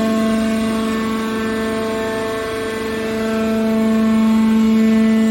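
Hydraulic power unit of a scrap steel baler running, a steady pitched hum from its motor and pump that eases slightly midway and swells again toward the end.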